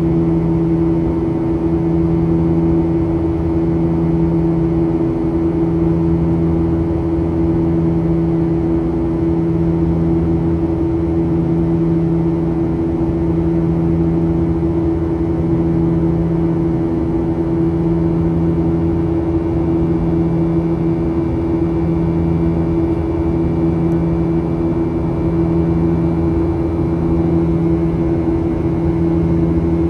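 Boeing 737-800's CFM56-7B engines and airflow heard inside the passenger cabin in flight: a loud, steady drone with a low hum that throbs slowly and evenly, about once every second and a half, as the two engines beat against each other.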